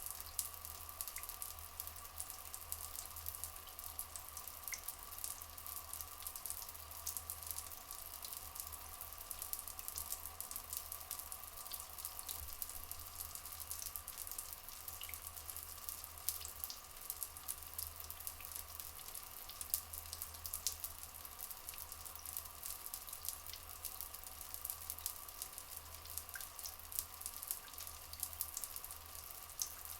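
Rainforest ambience of flowing water, with dense fine dripping and crackling over a steady hum-like band and a low rumble. A few faint, brief chirps sound now and then.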